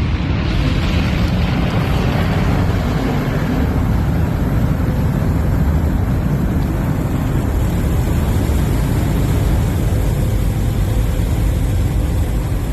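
Automatic car wash equipment running over the car: a loud, steady, deep rumbling noise. A higher hiss is strong at first and fades over the first few seconds.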